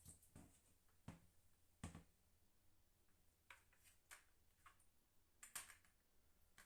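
Near silence with a few faint, scattered clicks and knocks: bidet parts being handled and fitted to a toilet.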